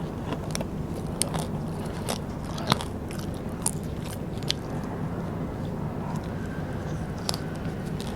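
Close-miked chewing and biting of Vietnamese rice paper snacks: irregular crisp crunches and wet mouth clicks, the sharpest crunch a little under three seconds in, over a steady low hum.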